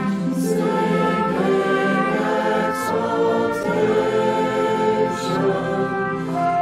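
Choir singing a Christmas hymn in sustained chords, with the hiss of sung consonants every second or so.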